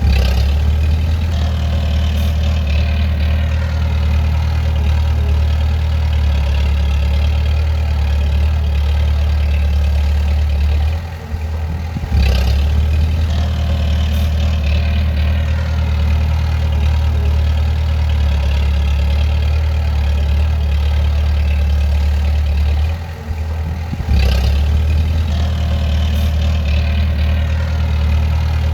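Bulldozer's diesel engine running steadily with a deep drone, dipping briefly and picking up again about every twelve seconds.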